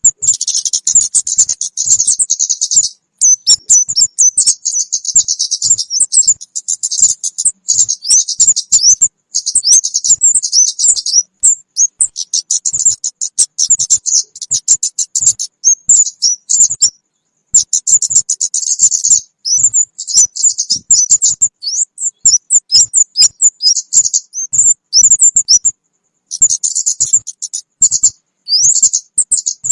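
Lure recording of kemade birds calling: rapid runs of high, thin chirps and short sweeping notes, in long bursts with brief pauses between them. Tags on the video mark these as the calls of young kemade birds.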